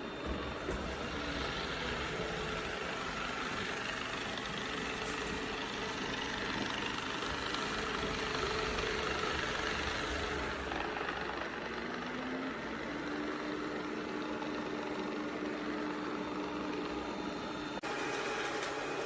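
Yeedi M12 PRO+ robot vacuum running with a steady motor whir and hum; a little past halfway one hum rises slightly in pitch and then holds.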